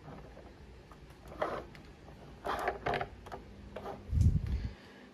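Hard plastic toy van being handled: a few light clicks and taps, then a dull low thump about four seconds in.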